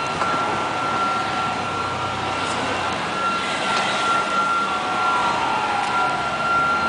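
Fire trucks' engines running, with a steady high-pitched tone held over a dense wash of noise, broken by a couple of short gaps; a faint tone glides downward near the end.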